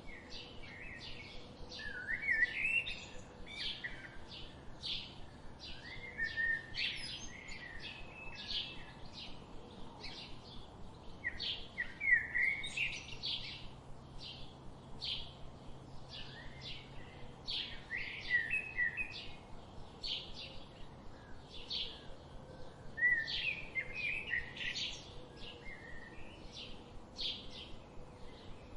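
Wild songbirds singing: a steady run of short, high chirps, about two a second, with a lower warbling phrase breaking in every few seconds.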